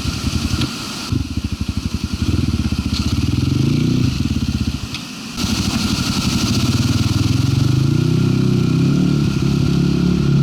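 Zuum NC300 enduro motorcycle's single-cylinder four-stroke engine running under load on a climb, the revs rising as the throttle opens, easing off briefly about halfway through, then rising again.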